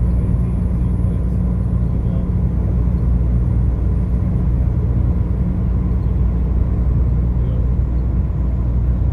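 Steady low rumble of a car travelling at road speed: engine and tyre noise holding level.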